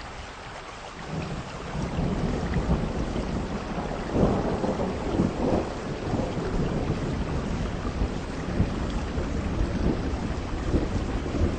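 Heavy rain with wind. A deep rumble swells in about a second in and is loudest around four to five seconds in.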